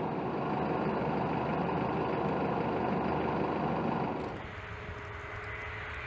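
Aircraft pushback truck's engine running steadily under load while it moves a KC-135 tanker. About four seconds in it gives way to a quieter, steady hum.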